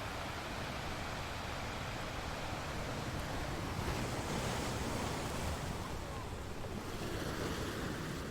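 A steady rushing noise with no tones in it, like wind or surf, swelling slightly around the middle.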